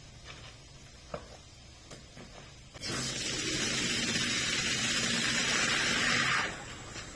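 Water spraying in a steady hiss, starting suddenly about three seconds in and stopping near the end, after a few light clicks.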